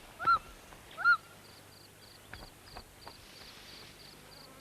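A large bird calling: two loud, arched yelping notes about a second apart. After them comes a faint high ticking, about four a second.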